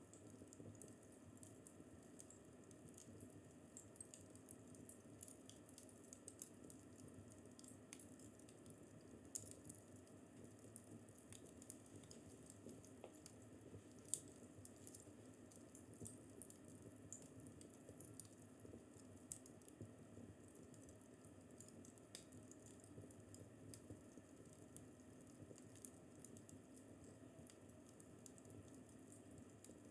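Faint fireplace fire crackling: irregular small pops and snaps over a low steady hiss, with one louder pop about halfway through.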